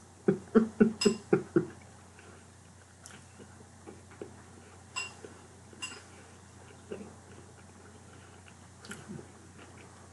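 Eating sounds: a quick run of about six loud pulses in the first second and a half, then quieter chewing, with a few sharp clinks of a utensil against a dish that ring briefly.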